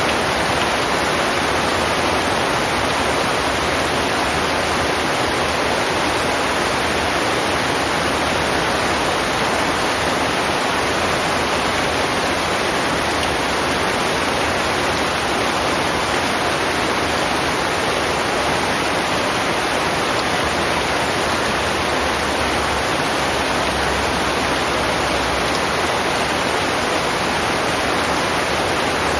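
Heavy rain falling as a steady, dense hiss, with no separate drops or thunder standing out.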